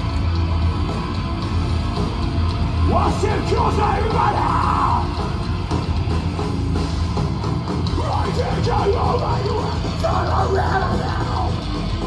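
Heavy rock band playing live and loud, with drums and distorted guitar; a shouted vocal comes in about three seconds in.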